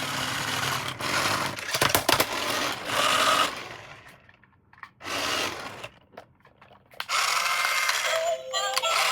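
Small electric motor of a remote-control toy car whirring in bursts, stopping twice for about a second before starting again.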